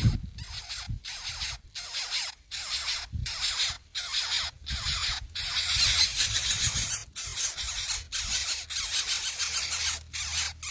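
Nestlings begging in the nest: a steady run of raspy, hissing calls, roughly three every two seconds.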